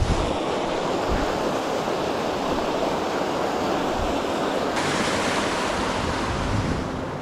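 Steady rush of falling water from Race Brook's cascades, a loud even roar that turns brighter and hissier about five seconds in.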